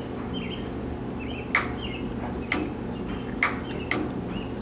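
A steady low hum with a few sharp clicks, irregularly spaced, and faint short high chirps.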